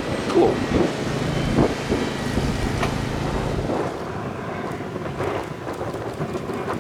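Sugarcane freight train rolling past, with scattered knocks and clanks from its cars and wind on the microphone; a low hum drops away about halfway through.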